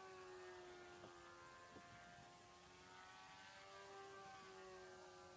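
Four-stroke model airplane engine running faintly at a steady speed, its pitch shifting slightly partway through.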